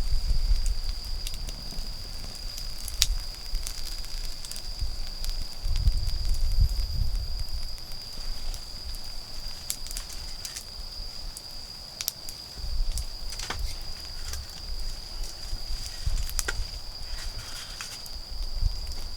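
Wood campfire crackling, with scattered sharp pops from the burning wood, over a steady high-pitched trill of autumn insects. A low rumble comes and goes underneath.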